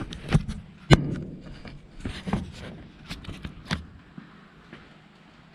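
A run of irregular sharp clicks and knocks, the loudest about a second in, thinning out after about four seconds.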